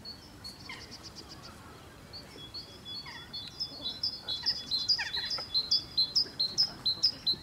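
A songbird chirping: a quick series of short, high notes, repeated several times a second and getting louder in the second half.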